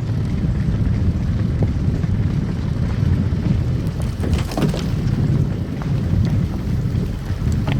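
Car driving on a snow-covered road: steady low rumble of tyres and engine, with a few brief crackles about four to five seconds in and once more near the end.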